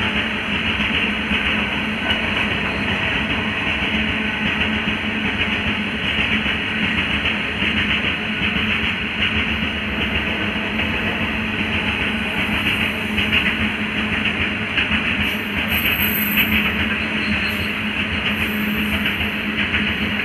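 A long freight train of covered wagons rolling past: a steady rumble of steel wheels on rail with a continuous rapid clatter of the wheels.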